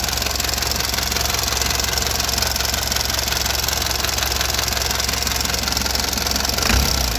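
Toyota 14B four-cylinder diesel engine idling steadily with its diesel clatter. The low note shifts briefly near the end.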